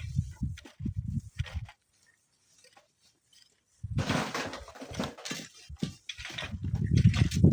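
Strong wind buffeting the microphone in irregular, rumbling gusts, cut off by about two seconds of dead silence in the middle before the gusts return with a hiss and grow louder near the end.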